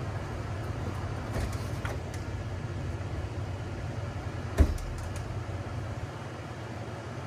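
A steady low hum, with a single sharp knock about four and a half seconds in.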